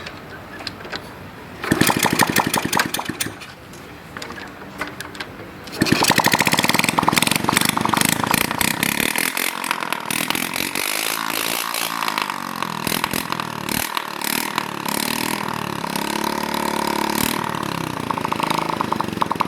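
Small motorcycle engine on a modified Honda Chaly being started: it runs briefly about two seconds in and dies, then catches about six seconds in and keeps running, its speed rising and falling.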